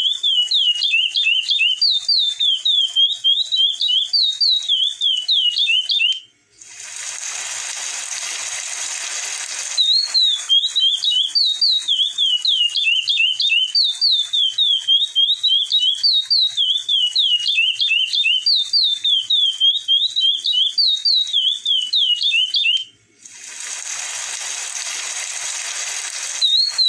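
Chestnut-bellied seed finch (curió) singing: quick runs of high whistled notes sliding up and down, repeated over and over. Twice the song drops out for about three seconds, replaced by a rasping hiss.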